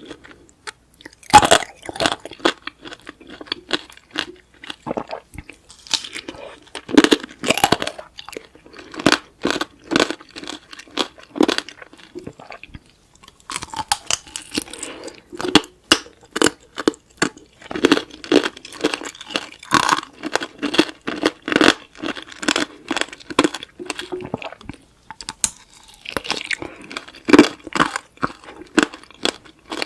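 Close-miked crunching and chewing of tanghulu: the hard candied-sugar shell cracks in sharp, irregular snaps between bites of juicy fruit, with a few louder cracks near the start, about seven seconds in, and near the end.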